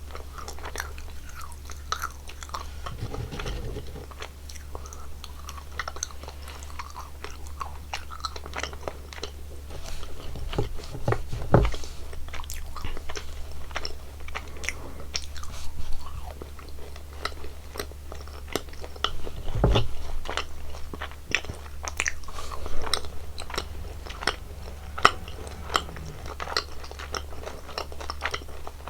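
Close-miked mouth sounds of a person chewing and biting into sweets: a continuous run of small sticky, crisp clicks, with louder single bites about a third and two thirds of the way through. A steady low hum sits underneath.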